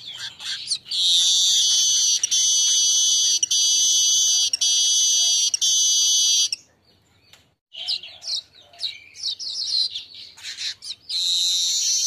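A golden-headed manyar weaver singing. A long, high, buzzy trill runs for about five seconds with brief breaks, then after a short pause come rapid chattering notes and a second buzzy trill near the end.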